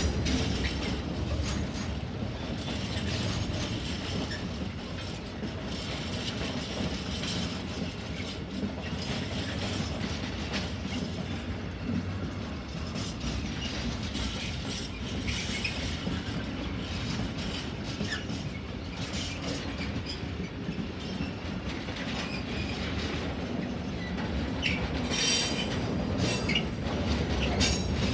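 Freight wagons of a mixed freight train rolling past: a steady rumble of steel wheels on the rails with clickety-clack over the rail joints, and a run of sharp clicks near the end.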